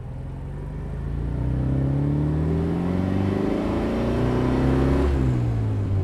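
Austin Healey 100M's 2.6-litre inline-four engine accelerating hard in the open car, revs climbing steadily. About five seconds in the revs fall back sharply at a gear change, then pull on in the next gear.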